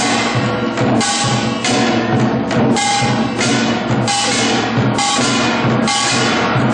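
Korean samul nori percussion: drums and gongs played together in a driving beat. Heavy strokes come a little under twice a second, each followed by a ringing, metallic tail.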